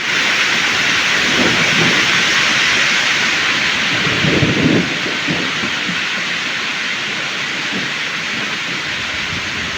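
Heavy rain pouring down in a steady hiss, with low rumbles of thunder coming and going, the strongest about four and a half seconds in.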